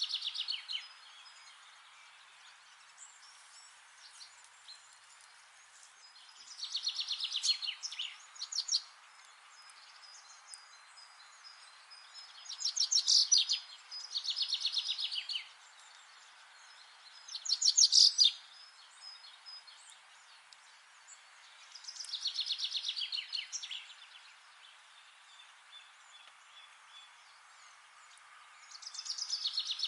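A songbird singing the same short song again and again: a quick run of notes falling in pitch, about a second and a half long, every few seconds. Faint chirps come between the songs over a steady background hiss.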